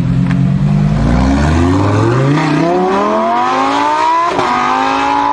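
A car engine accelerating hard: it holds steady for about a second, then its pitch climbs for about three seconds, drops sharply for an upshift a little past four seconds, and carries on high in the next gear.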